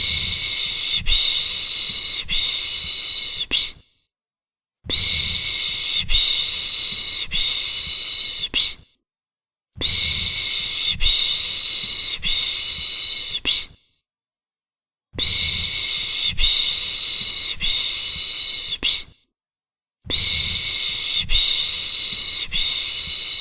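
A person shushing 'pış pış' to soothe a baby, a rhythmic hiss pulsing about once a second. It comes in runs of about four seconds with a second of silence between them, repeated as a loop.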